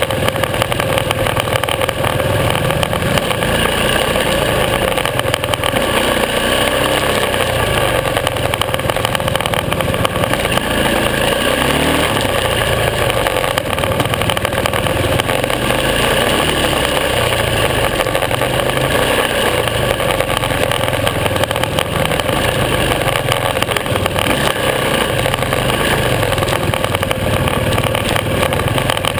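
Supermoto motorcycle engine running on a dirt trail, steady and loud, with the revs rising and falling a little as the bike is ridden.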